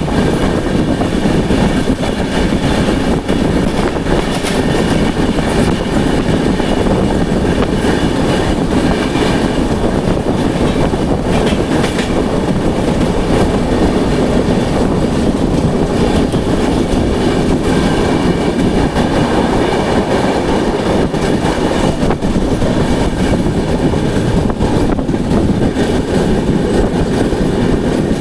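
Passenger express train running at speed: a loud, steady rumble from the wheels on the rails, with a few scattered sharp clicks from the wheels passing rail joints.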